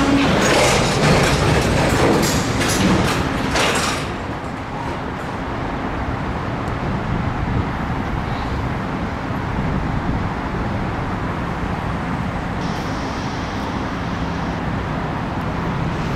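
Loaded freight cars of a dirt train moving slowly through a rail yard, with a clatter of steel wheels and couplers for about the first four seconds. This gives way to a steady low diesel rumble.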